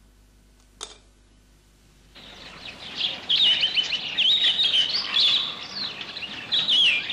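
Near quiet broken by a single short click, then about two seconds in a dense chorus of small birds chirping starts and quickly grows loud, many quick twittering calls overlapping.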